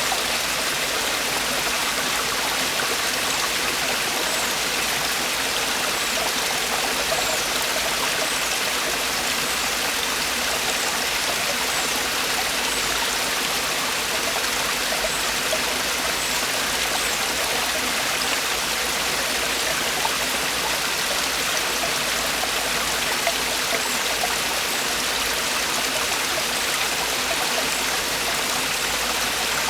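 Mountain valley stream, water falling and rushing over rocks in a steady, unbroken rush.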